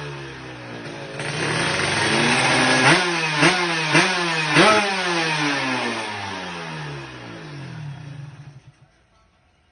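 Racing motorcycle engine with a new Block 65 cylinder being revved: the revs climb, it is blipped sharply four times, then the revs sink away slowly and the engine stops shortly before the end.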